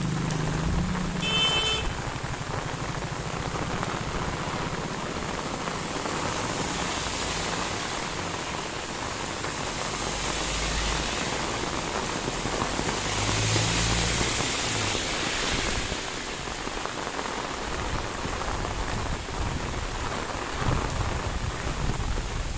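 Heavy rain falling steadily, an even hiss that swells louder for a couple of seconds midway, with a low hum under it. A short high tone sounds about a second and a half in.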